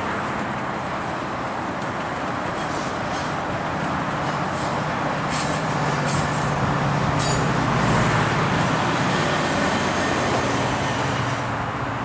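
GO Transit diesel commuter train running through the station: a steady rumble that swells slightly to a peak about eight seconds in, with several brief sharp high sounds in the middle.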